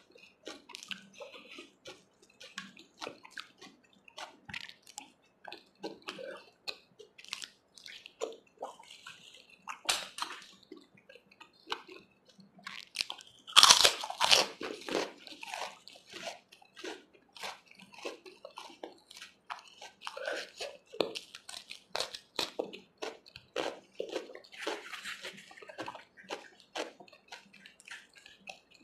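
A person chewing food close to the microphone, with many small clicks of the mouth. There is one loud crunchy bite about fourteen seconds in.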